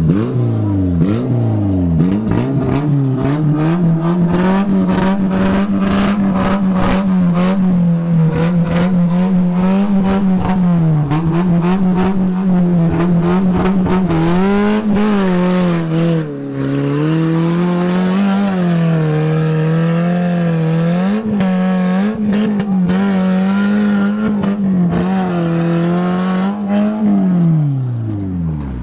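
Off-road 4x4's engine revved hard: a few quick blips, then held at high revs, rising and dipping, for most of the time before dropping away near the end. Repeated knocks and clatter sound over it, thickest in the first half.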